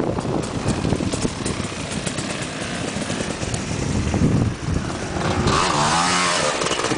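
Dirt bike engine running hard off-road, its pitch rising and falling as the throttle is worked, with a quick up-and-down revving near the end.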